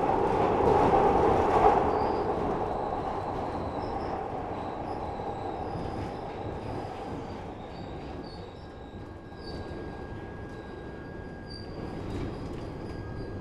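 Glasgow Subway train running through the tunnel, its rumble easing off as it slows, with short high wheel squeals and a thin steady whine in the later part.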